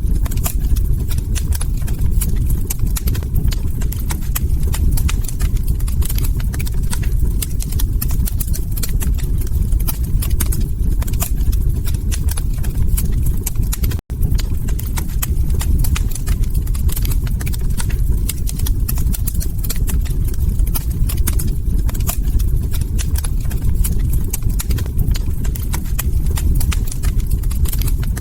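Log fire crackling: dense, irregular pops and snaps over a steady low rumble. The sound cuts out for an instant about halfway through.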